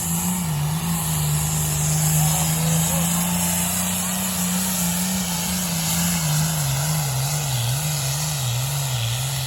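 Engine of a pulling vehicle running hard at high revs under load as it drags the sled. The pitch holds steady, then wavers rapidly up and down over the last few seconds.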